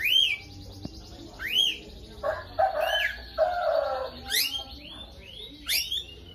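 Lovebird calling: sharp chirps that sweep up and drop back, repeated every second or so. A lower, harsher chattering stretch comes in the middle.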